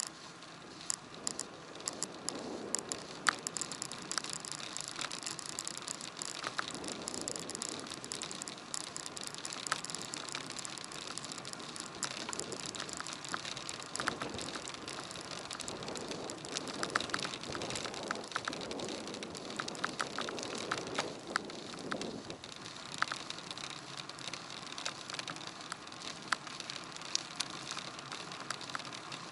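Riding noise of a bicycle picked up by a handlebar-mounted action camera: a steady hiss of tyres and wind with frequent small sharp clicks and rattles.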